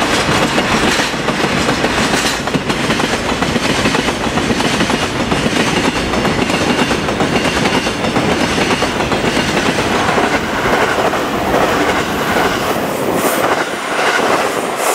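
Loaded Taki tank wagons of a freight train rolling past close by. Their steel wheels rumble steadily with a rhythmic clickety-clack over the rail joints.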